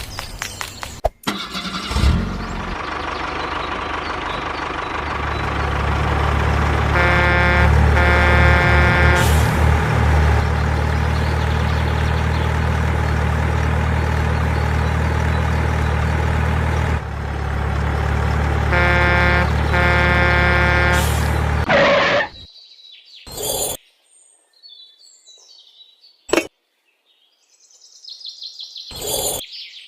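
A vehicle engine running steadily, with its horn honking in two bursts. The engine cuts off about three quarters of the way through, leaving a few faint clicks and bird chirps.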